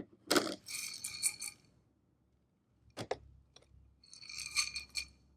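Glass microwave popcorn popper with its popcorn being handled: short rattles and clinks, with a sharp single click about three seconds in and another run of rattling near the end.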